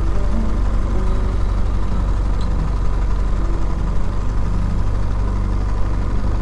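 2018 BMW R1200GS boxer-twin engine running steadily at low revs while riding.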